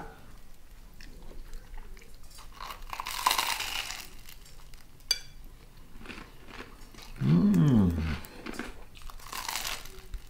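Crunching and chewing as the butter-toasted Italian-bread crust of a grilled cheese sandwich is bitten into and eaten. About seven seconds in, a short hummed 'mmm' rises and falls in pitch, the loudest sound.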